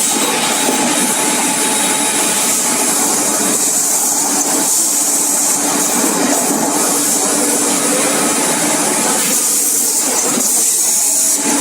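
Servo-driven automated busbar machine running: a steady machine hiss with a held motor hum underneath, dipping briefly in the middle range about ten seconds in.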